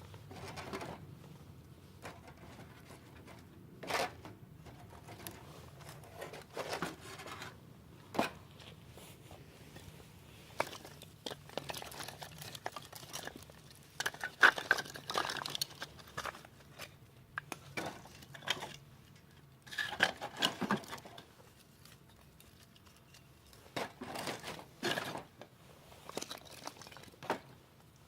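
Campfire crackling and rustling in irregular bursts, with sharp snaps and crunching as paper and kindling catch or are handled.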